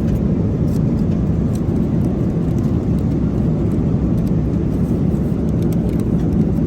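Steady low rumble of a passenger jet's engines and airflow, heard inside the cabin.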